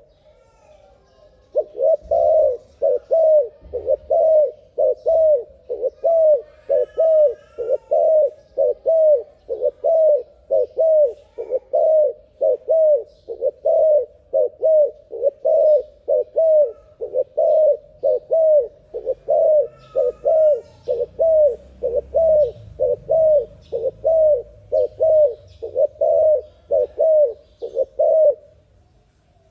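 Turtle dove cooing over and over in a fast, even series of about two coos a second. The coos begin about a second and a half in and stop shortly before the end.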